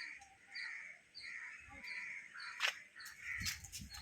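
A bird calling over and over in a steady rhythm, about two short calls a second, with a single sharp click about two-thirds of the way through.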